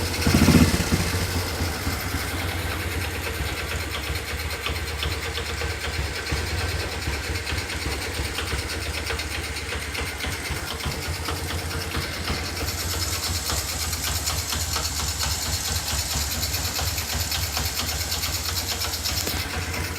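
Honda Kharisma motorcycle's single-cylinder four-stroke engine idling steadily through its original exhaust muffler with the insides hollowed out. There is a short blip of throttle right at the start, then the idle settles.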